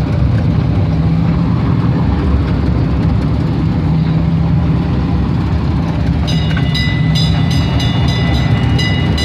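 Small open-car park ride train running along its track: a steady low rumble of the train and its wheels. About six seconds in, a set of high steady tones with rapid ticking joins the rumble.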